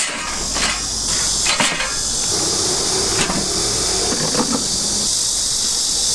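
A steady high-pitched hiss that cuts off suddenly at the end, with a few sharp knocks and clatters over it.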